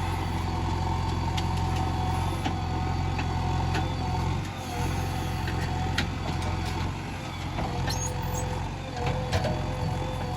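Diesel engine of a JCB 3DX backhoe loader running steadily, with a few sharp knocks and a brief dip in the engine sound about halfway through.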